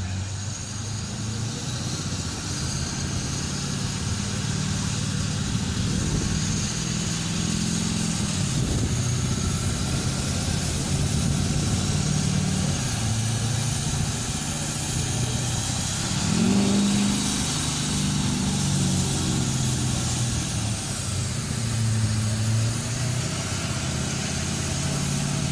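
Diesel pickup truck engine running on a chassis dyno, its pitch stepping up and down several times, with a louder surge about two-thirds of the way through.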